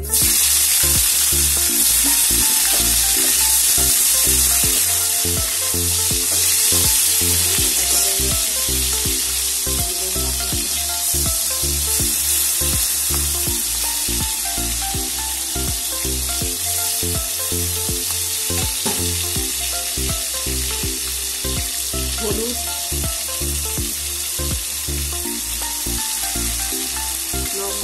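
Chopped tomato sizzling in hot oil in a metal wok. The sizzle starts abruptly as the tomato goes in and eases gradually.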